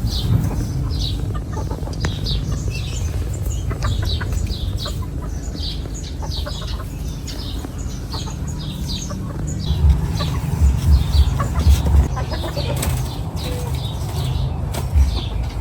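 A bird repeating a short high chirp, roughly one to two a second, over a steady low rumble that swells with a few heavier thumps past the middle.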